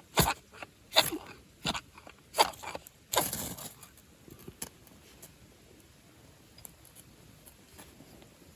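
Wood fire crackling: several loud sharp snaps and pops in the first four seconds, one running into a short crunching burst, then only faint scattered ticks.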